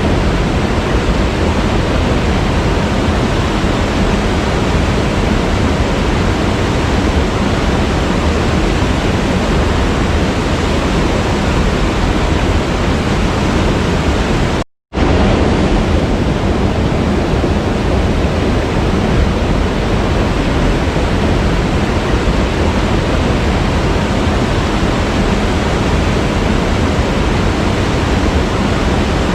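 Steady rushing of a waterfall, full and even. About halfway through it cuts out to silence for a fraction of a second, then resumes at once, like an edit or loop point in the recording.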